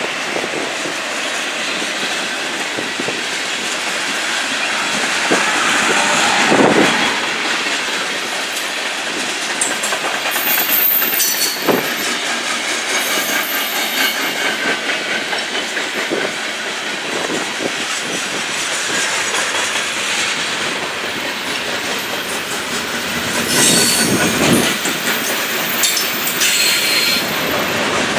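Freight cars of a long mixed freight train rolling past close by: a steady rumble of wheels on rail with occasional knocks as wheels pass over rail joints, and several brief high-pitched wheel squeals from about ten seconds in.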